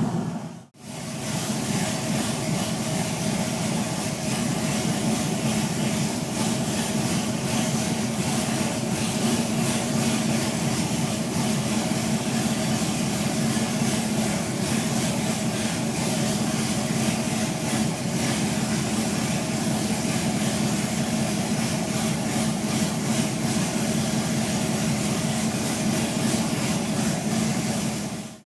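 Chevy 2500 pickup's 6.0-litre V8 idling steadily, after a brief gap about a second in.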